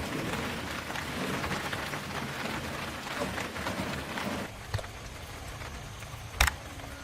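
Steady pattering water noise like rain falling on a surface. It drops away about four and a half seconds in, and a single sharp knock sounds near the end.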